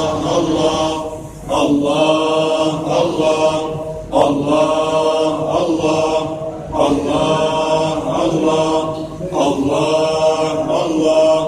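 Voices chanting a Sufi dhikr in unison, one short phrase repeated over and over about every two and a half seconds.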